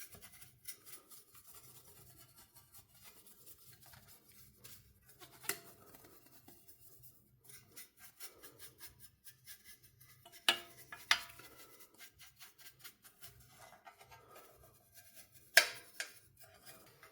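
Hands working on a PlayStation 4 console's parts: faint rubbing and scraping, broken by a few sharp clicks, one about five seconds in, two close together about ten seconds in, and two more near the end.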